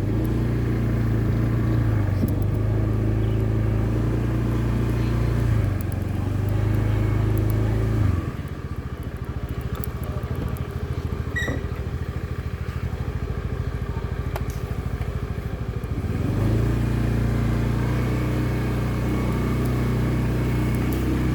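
Motorbike engine running under way with a steady hum. For about eight seconds in the middle it drops to a quieter, rapid pulsing, then picks back up to the steady hum.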